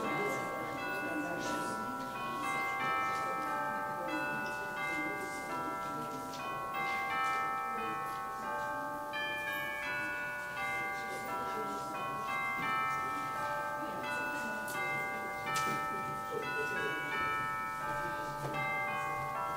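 Bell-like chimes playing a slow tune, many ringing notes overlapping, over a low murmur of people talking.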